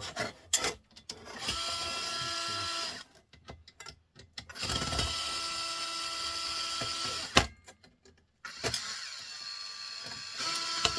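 Cordless electric screwdriver motor whining in three runs of a second or two each, backing screws out of printer parts. Short clicks and knocks of handled metal and plastic come in between the runs.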